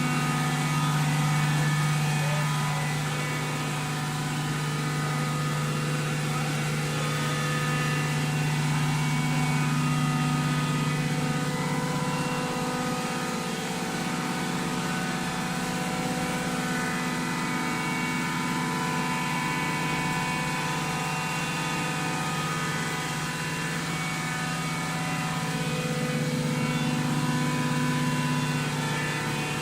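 Automatic waste-paper baler running: its motor and hydraulic pump give a steady, even hum.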